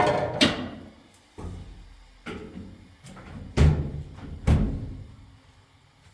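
A series of sharp knocks and bangs, about six in all, irregularly spaced. Each rings out briefly; the loudest come at the very start and about three and a half seconds in.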